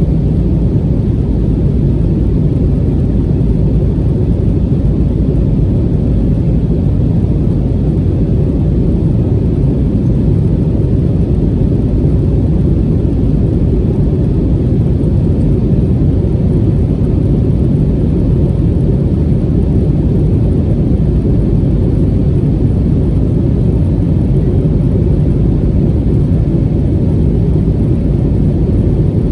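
Steady low rumble inside the cabin of an Airbus A320-271N: its Pratt & Whitney PW1127G geared turbofan engines and the airflow over the fuselage during the climb-out after takeoff.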